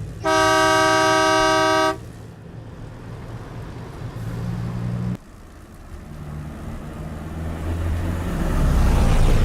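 A vehicle horn sounds one long blast of about a second and a half, two tones together. Then a heavy vehicle's engine and road noise rumble on, dropping suddenly about five seconds in and building again toward the end as it comes closer.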